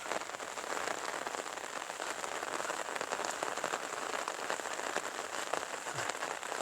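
Steady rain falling, a dense patter of raindrops.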